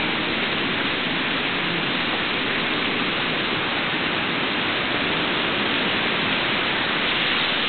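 Heavy thunderstorm rain pouring down, a steady dense hiss with no let-up.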